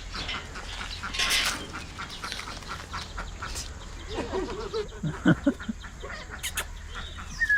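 Farm poultry calling, with quack-like and clucking calls, among scattered clicks and knocks and a short rustling burst about a second in.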